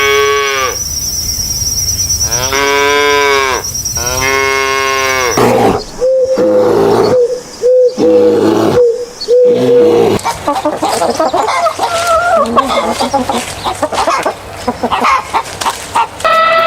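Cattle mooing: a few long, arching calls one after another. They are followed by a run of shorter repeated calls and a stretch of other mixed animal calls.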